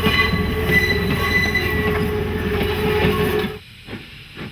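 A train rolling on the rails with a steady rumble and a held, high wheel squeal. About three and a half seconds in, the sound cuts to a much quieter bed with soft, evenly spaced steam exhaust puffs about every half second.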